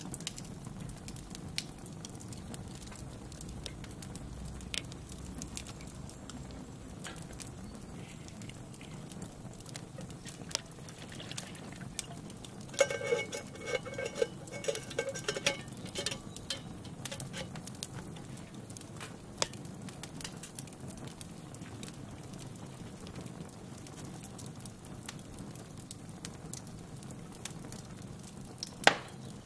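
Campfire crackling, with irregular sharp pops over a steady hiss. A brief pitched, pulsing sound lasts about three seconds near the middle, and a loud pop comes near the end.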